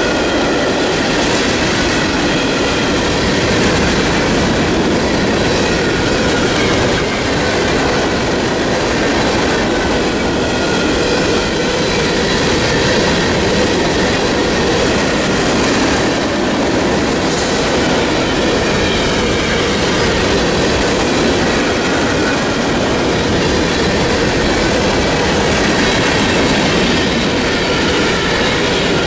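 Freight train of covered hopper cars rolling past close by: a steady, loud rumble and rattle of wheels on rail. Thin high wheel squeal rings out near the start and again near the end.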